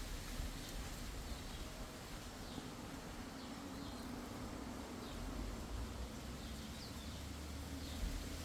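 Outdoor ambience: faint, scattered short bird chirps, roughly one a second, over a steady low rumble.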